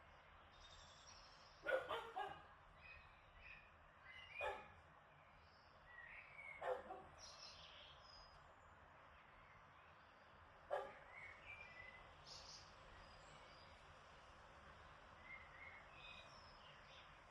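Outdoor garden ambience: a steady faint breeze hiss with scattered bird chirps, broken by four short, sharp animal calls spaced a few seconds apart, the first one doubled.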